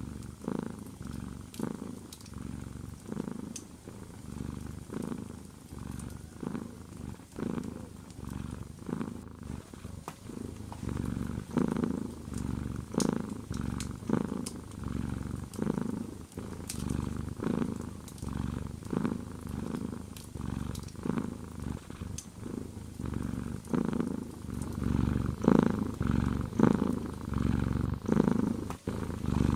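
Domestic cat purring close up, a low rumble that swells and fades with each breath about once a second, growing louder near the end.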